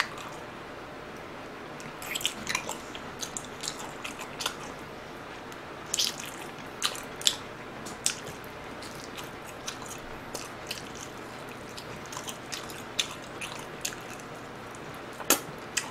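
Close-miked biting and chewing of a red-sauced fried chicken piece (Mom's Touch masala chicken): irregular short, crisp clicks and crunches of bites and chews.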